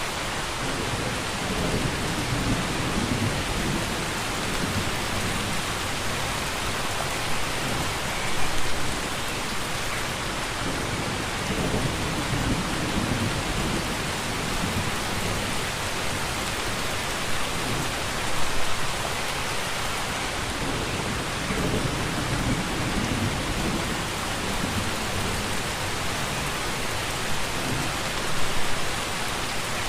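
Steady rain falling, with low rumbles of thunder rolling through and brief louder swells about every ten seconds.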